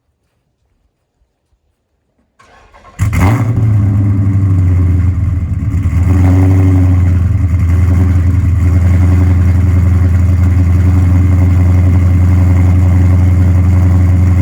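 Chrysler SRT's 6.4-litre 392 HEMI V8 starting: a brief faint crank, then it fires about three seconds in with a sudden loud burst and settles into a steady, loud run.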